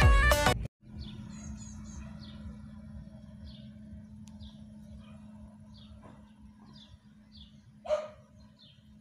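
Music cuts off abruptly under a second in. Then the low, steady sound of an Opel Zafira's engine fades as the car pulls away into the yard, with birds chirping repeatedly and a dog barking once near the end.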